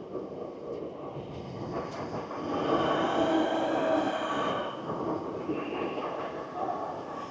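Commuter train pulling into the platform, rumbling, with a high-pitched squeal of several tones that swells and is loudest about three to four seconds in.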